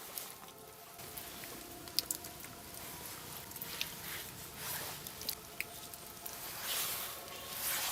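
Irregular rustling with scattered light clicks and taps, with faint background music underneath.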